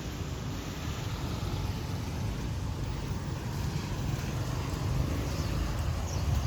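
Wind buffeting the microphone over the steady rumble of street traffic, growing a little louder about two-thirds of the way through.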